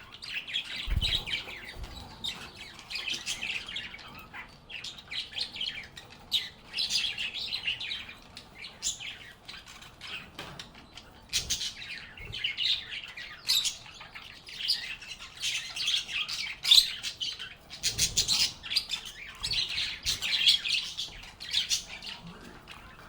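A group of lovebirds chirping and chattering continuously in quick, overlapping high calls, with a brief low thump about a second in.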